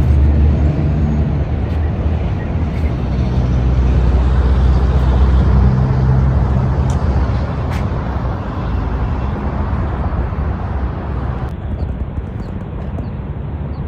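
Road traffic noise: a steady rush of passing vehicles with a low engine hum, which fades about halfway through.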